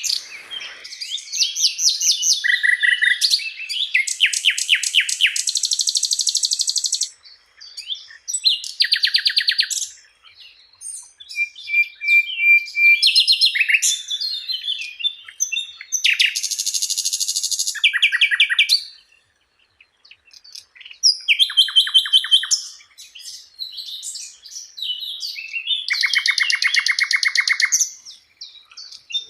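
Songbird singing a loud, varied song of rapid trills and chattering runs of quickly repeated notes, in phrases of a second or two separated by short pauses.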